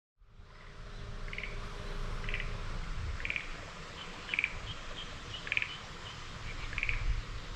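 Outdoor ambience with short bird chirps, repeated about once a second, over a steady low rumble.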